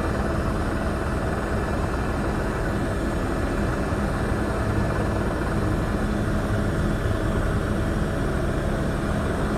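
Tour helicopter's engine and rotor noise: a steady, loud drone with a fast flutter.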